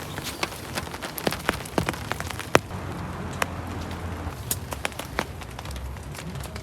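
Rain falling steadily, with many scattered sharp taps of drops striking a surface, the loudest about two and a half seconds in.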